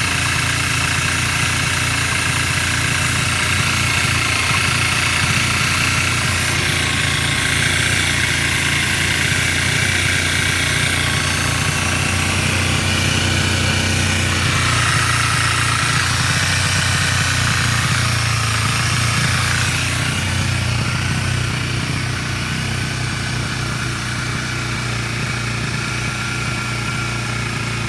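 2010 Kawasaki Ninja 250R's parallel-twin engine idling on choke, with a steady higher-pitched noise over the engine note that the owner finds weird and that is still there after ten minutes of running. It gets a little quieter about twenty seconds in.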